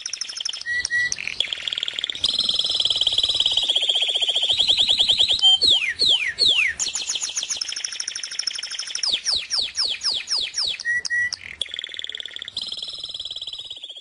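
A songbird singing: long, very rapid trills alternating with runs of sharply falling whistled notes, several in quick succession about halfway through and again later on.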